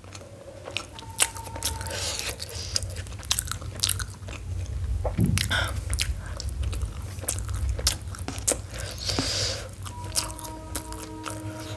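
Close-miked biting and chewing of soft steamed momos dipped in chutney, with many sharp wet mouth clicks and smacks. A few faint steady musical tones come in near the end.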